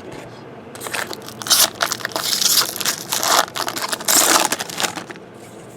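Foil trading-card pack wrapper crinkling and tearing as it is handled and ripped open, in a run of loud crackly bursts from about a second in until near the end.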